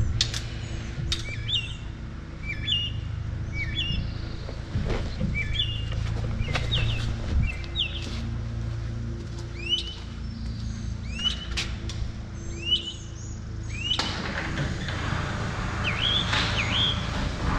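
A small songbird chirping over and over, short sharp chirps about once a second, over a steady low hum.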